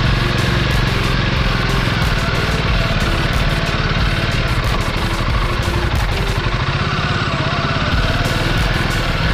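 Royal Enfield Guerrilla 450's single-cylinder engine running under way, its note rising and falling as the rider shifts down through the gears.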